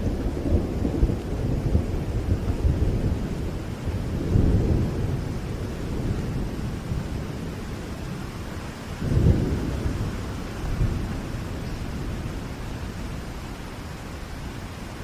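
Thunderstorm: steady rain hiss under rolling thunder, with loud rumbles swelling about four seconds in and again about nine seconds in, then easing off.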